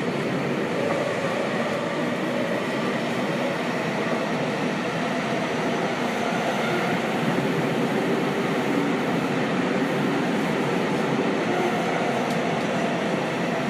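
Seibu 6000-series electric train running steadily at speed through a subway tunnel, heard from inside the car: an even rumble of wheels on rails with a faint hum of motors underneath.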